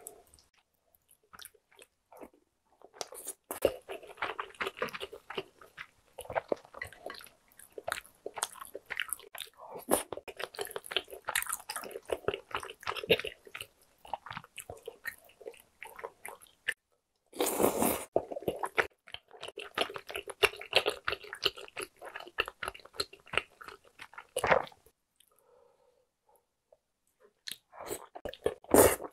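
Close-miked mukbang eating sounds: chewing with a dense run of mouth clicks and smacks. Near the end there is a pause of about two seconds, and then a noodle from a bowl of spicy tteokbokki is slurped up.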